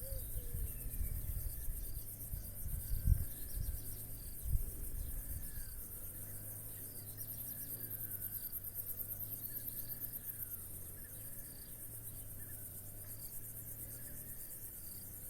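Crickets trilling, a fast, even, high-pitched pulsing that keeps on throughout, with faint short bird chirps behind it. A low rumble and two low thumps come about three and four and a half seconds in.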